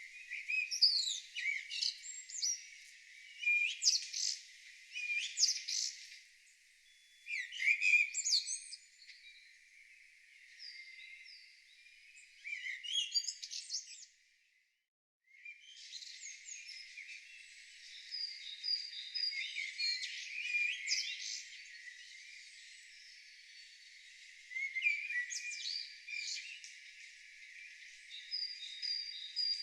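Several songbirds singing together: overlapping chirps, trills and short whistled phrases. The song cuts out completely for about a second halfway through, then carries on.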